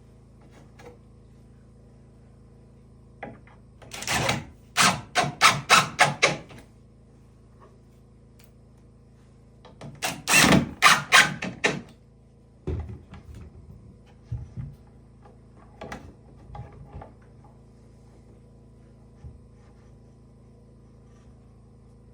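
Two bouts of quick, sharp strokes, about three a second, followed by a few scattered softer knocks.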